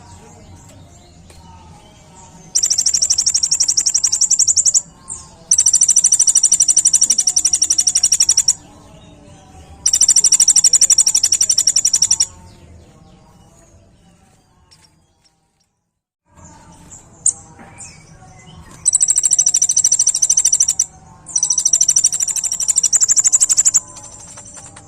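A kolibri ninja sunbird singing in long, loud, very rapid high-pitched trills, each lasting two to three seconds, five in all with short pauses between, the sound cutting out briefly near the middle.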